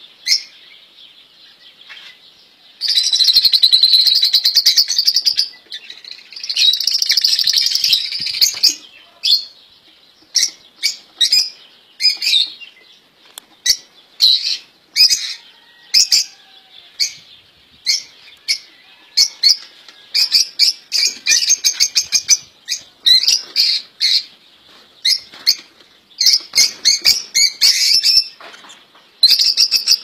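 Caged pet songbirds chirping and singing: many short high chirps, with two longer rapid trills a few seconds in.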